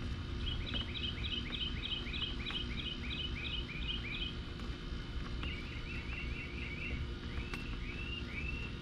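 Songbirds singing: a bright chirp repeated quickly about three times a second for the first four seconds, then a short trill and a few separate slurred notes, over a steady low rumble.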